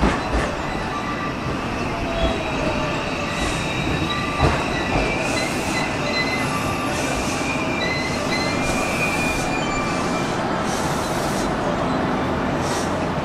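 JR West 323 series electric train pulling in and braking to a stop, its wheels and brakes squealing in several thin high tones that waver in pitch. A sharp clack, likely a rail joint, comes about four and a half seconds in.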